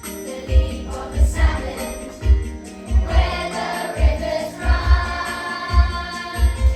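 Children's choir singing over a backing track with a steady, heavy bass beat; the singing fills out about halfway through.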